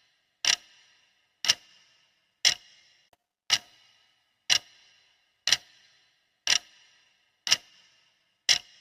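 Clock ticking steadily, one sharp tick each second, each with a short ringing tail.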